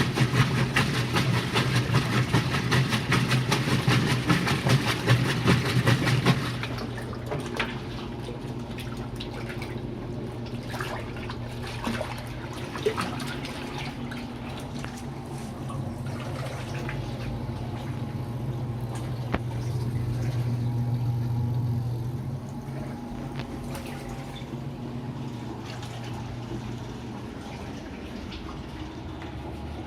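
Washing machine running, its motor humming steadily. For the first six seconds or so there is a loud, fast rattle, which then drops away. After that comes quieter water sloshing and splashing over the continuing hum.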